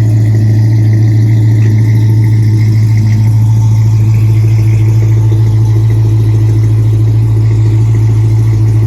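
Hemi V8 exhaust from a swapped Dodge Charger with catless headers and a Flowmaster exhaust, running loud and steady at an even engine speed with a deep drone.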